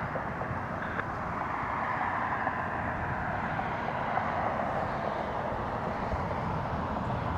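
Jet engines of a departing Boeing 737-900ER: a steady rushing roar that grows slowly louder.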